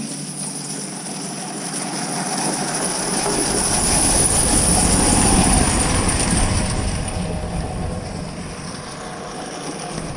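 A train passing close by, growing louder to a peak about five seconds in and then fading.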